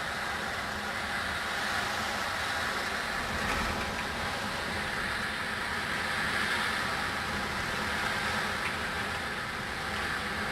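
A steady rushing noise with no breaks.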